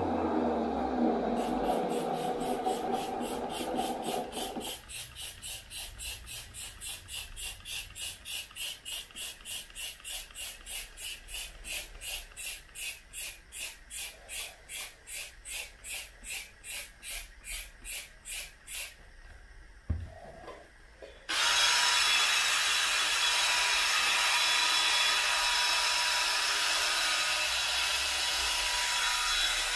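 A wet vacuum cleaner's motor winding down, followed by rhythmic scrubbing strokes on carpet, about two or three a second, for most of the first two-thirds. After a click, a steady loud rushing noise starts suddenly.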